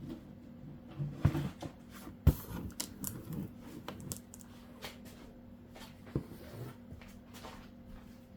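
Heater-kit parts and their packaging being handled and moved about: scattered clicks, rustles and a few sharp knocks, the loudest about a second and two seconds in, over a faint steady hum.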